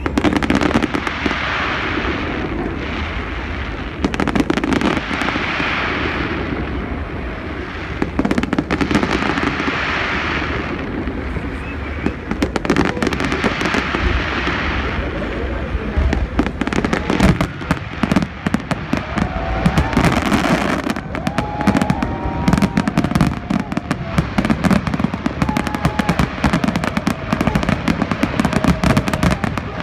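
Aerial fireworks display: steady bangs and crackling of bursting shells. The crackling becomes much denser and quicker about halfway through.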